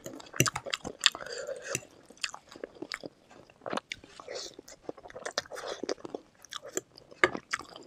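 Close-miked eating: chewing and biting on chicken-feet curry and noodles, with irregular crunches and wet, sticky mouth sounds.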